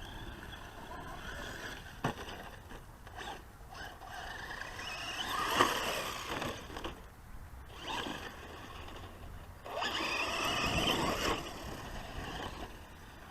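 Traxxas Slash 4x4 VXL radio-controlled truck's brushless electric motor whining in two bursts of throttle, rising and falling in pitch, about five and ten seconds in, with a sharp tick about two seconds in.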